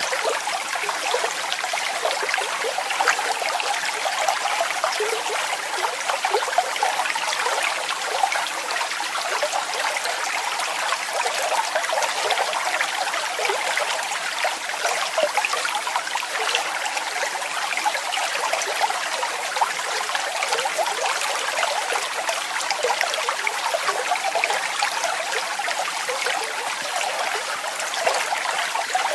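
Small waterfall: water falling and splashing without a break, a light spattering rush with no deep rumble.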